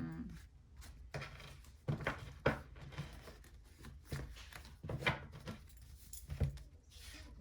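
Cards being handled and set down: a few short sharp taps and flicks, the loudest about two and a half seconds in.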